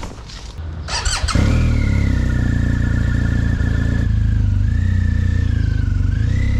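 A motorcycle engine is cranked with a brief whining starter and catches about a second and a half in, then runs at a steady idle with a wavering whine above the engine note.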